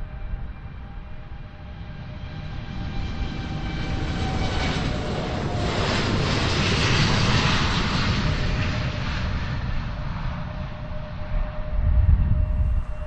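Boeing 787-8 Dreamliner's Rolls-Royce Trent 1000 turbofans at takeoff thrust, a jet roar with a steady whine that swells as the plane passes, peaks about halfway through and then fades. A burst of low rumble comes near the end.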